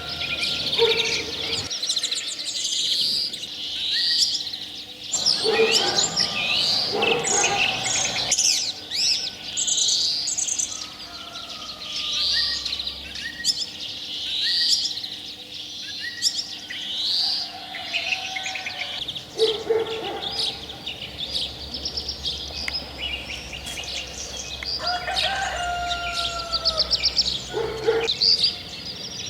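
Several songbirds singing at once in an early-morning spring chorus: short chirps and trills repeating in overlapping phrases, with a few lower, sliding whistles joining about two-thirds of the way in.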